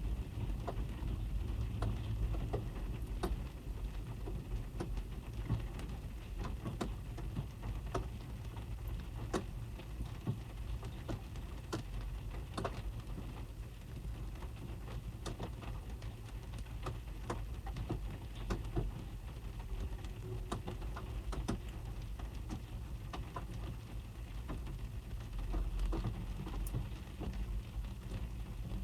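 Rain drumming on a car's roof and windows, heard from inside the cabin: a dense patter of drops with many separate ticks over a low, muffled rumble.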